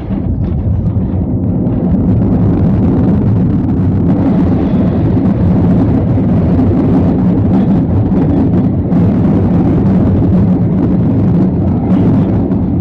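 Cabin noise of an Airbus A319 on its landing roll: a loud, steady, low roar of the engines and rushing air. It swells about two seconds in and eases near the end, typical of reverse thrust after touchdown.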